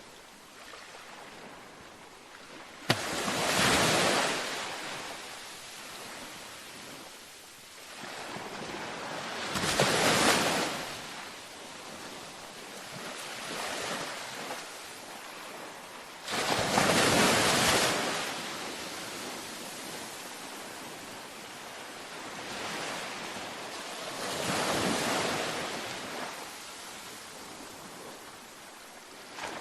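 Ocean waves breaking on a beach, one after another: each wave comes in as a rising rush of surf and drains away into a low, steady wash. The loudest breaks come about three seconds in and just past the middle, the first with a sudden crash.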